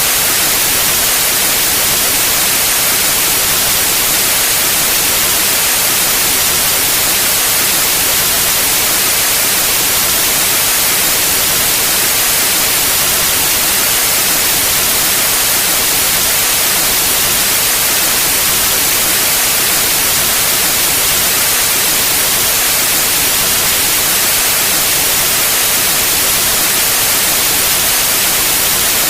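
Steady white noise: an even, unchanging hiss, brightest in the high register.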